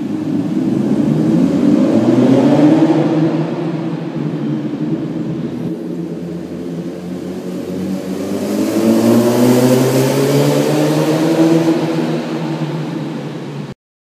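Honda CBR1000RR's inline-four engine through a full carbon-fibre Scorpion exhaust, climbing in pitch over the first few seconds, easing off, then pulling up again about eight seconds in before slowly dropping back. The sound cuts off abruptly near the end.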